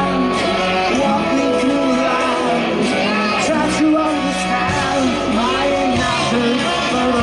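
Rock band playing live, with singing over guitars and drums.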